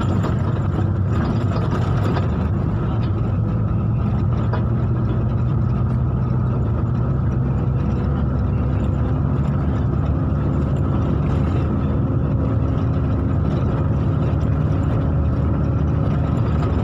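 Steady engine and road noise of a vehicle being driven: a continuous low engine hum under an even rumble.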